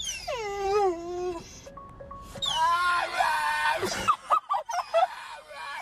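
A dog's loud wailing cries: one long cry sliding down in pitch, then a second cry a second later, then a few short yelps about four seconds in, with background music.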